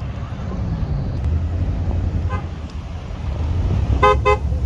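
Vehicle engines rumbling low and steady, with a car horn sounding two short toots near the end and a fainter brief toot about two seconds in.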